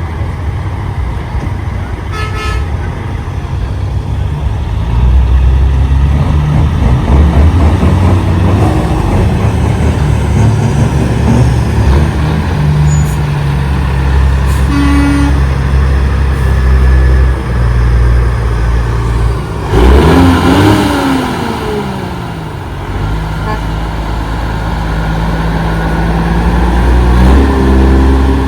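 Heavy diesel semi-truck engines rumbling steadily as big rigs roll past in a convoy, with short horn toots about two seconds in and again around the middle, and a louder noisy burst with a falling pitch about two-thirds of the way through.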